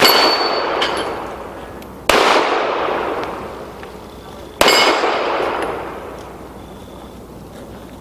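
Three pistol shots fired slowly, about two seconds apart, each followed by a long echoing tail.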